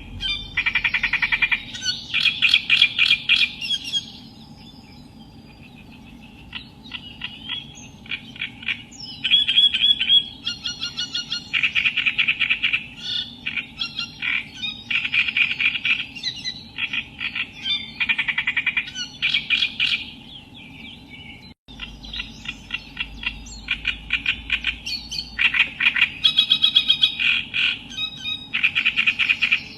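Reed warbler (Acrocephalus, kerak basi) singing: phrases of harsh, chattering repeated notes, each phrase a second or two long with short gaps between them. A brief break comes about two-thirds of the way through.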